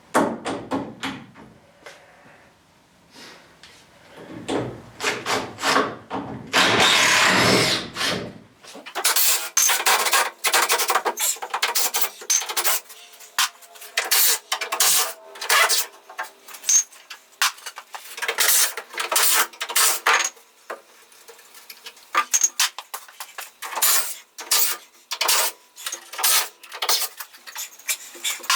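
Power drill running in many short bursts, with one longer run of about four seconds in the first third, and wood knocking and rattling between the runs: screws being driven out to take a wooden chicken tractor apart.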